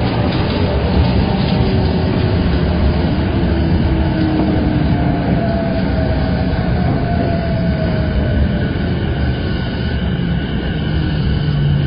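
Saikyo Line E233-7000 series electric train running at speed: a steady rumble of wheels on rail, with faint whining tones that slowly fall in pitch.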